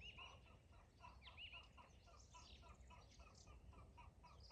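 Faint chickens clucking in a steady run of short notes, about four a second, while small songbirds chirp and trill over them.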